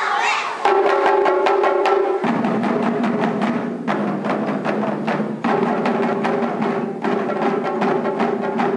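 Taiko drums beaten by a troupe of young children in a quick, steady rhythm of many strokes a second, over a backing music track whose sustained notes change every few seconds.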